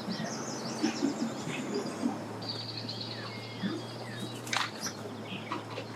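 Birds chirping over outdoor background noise, with a steady low hum underneath.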